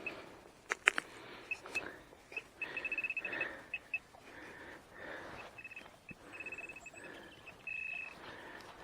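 Metal detector signal tones: short high beeps, a fast run of pulses about three seconds in and a longer steady beep near the end, with a few sharp clicks early on. The detectorist takes the signal for iron.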